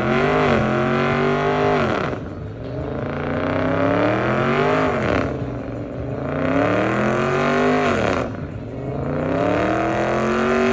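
Car engine revving hard in repeated surges, its pitch climbing and dropping about four times, while the car spins donuts with its rear tyres smoking.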